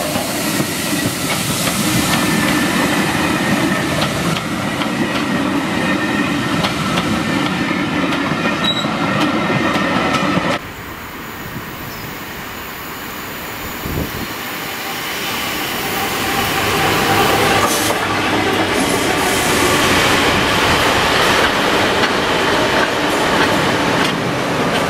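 Railway coaches rolling past close by, wheels clicking over the rail joints with a steady squeal from the wheels, cutting off suddenly about ten seconds in. Then a freight train with a diesel locomotive approaching, its rumble growing louder over several seconds and staying loud as the wagons and a passenger train go by.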